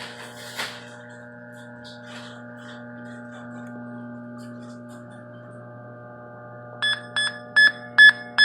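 A steady electrical hum, then, about seven seconds in, a handheld EMF meter's alarm starts beeping: short, high-pitched beeps, about two and a half a second, the sign of a high radiation reading.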